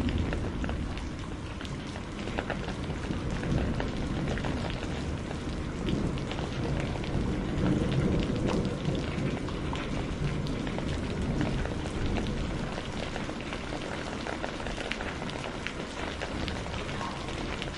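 Steady rain with low rolling thunder, the rumble loudest at the start and swelling again about halfway through. Small sharp ticks are scattered through it.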